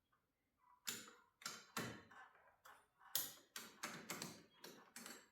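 A series of sharp, irregular metal clicks and knocks, about two a second, from hand-tool work on a garage door torsion shaft's cable drum as its set screws are loosened.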